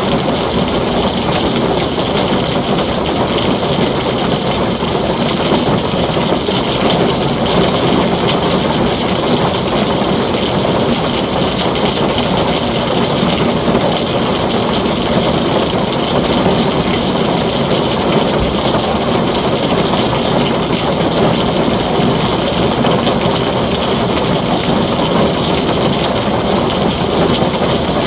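Heavy rain falling steadily on a tin roof, a dense even downpour with no thunder.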